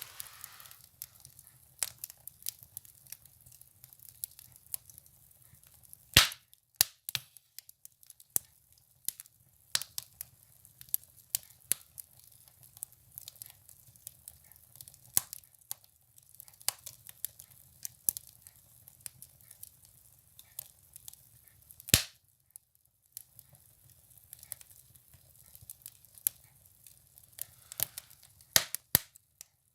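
Firewood burning in a wood stove: irregular crackling and sharp pops, the loudest about six seconds in and again around twenty-two seconds, over a faint hiss of the flames.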